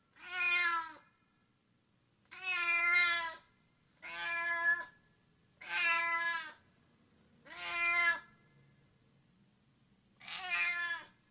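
Domestic cat meowing over and over: six drawn-out meows of about a second each, a second or two apart, each falling in pitch at the end.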